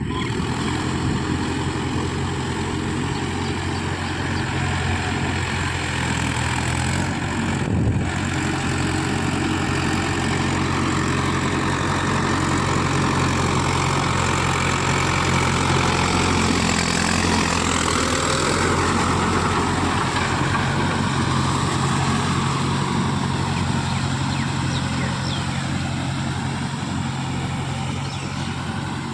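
Mahindra Yuvo Tech Plus 575 DI tractor's diesel engine running steadily, growing somewhat louder for a stretch in the middle, with a single knock about eight seconds in.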